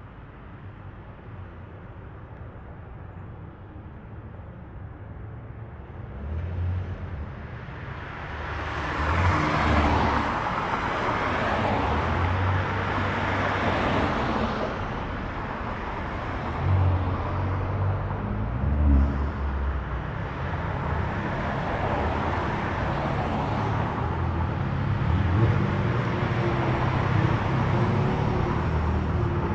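Cars driving past at low speed with their engines running and brief rises in revs. It is fairly quiet at first; about a third of the way in, engine and tyre noise swells and stays.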